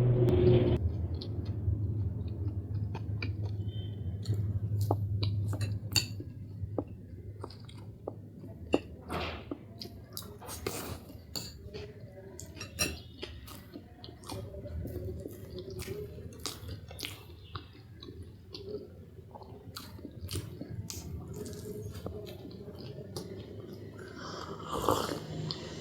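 Close-miked mukbang eating sounds: chewing with many small wet clicks and mouth noises, and now and then a clink of tableware. A low hum runs under the first few seconds.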